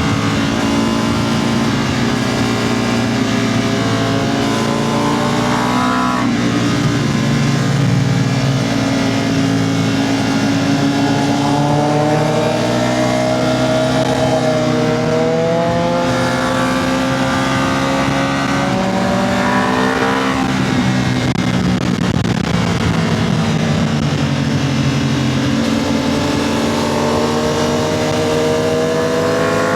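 Motorcycle engine heard from on board at speed, its pitch climbing steadily and then dropping sharply several times as the rider accelerates and backs off through the bends.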